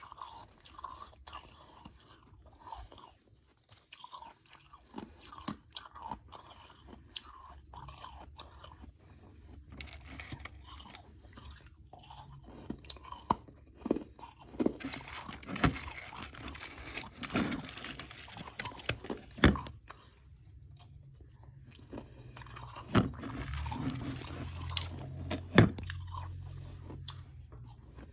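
A person biting and chewing frozen powdery ice with some harder chunks, close to the microphone: sharp crisp crunches and gritty chewing, denser and louder in two stretches, from about ten seconds in and again past twenty seconds.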